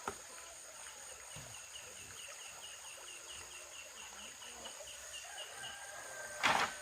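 Steady high-pitched insect drone, with a run of about twenty quick, evenly spaced chirps in the middle, about six a second, then a brief loud noisy burst near the end.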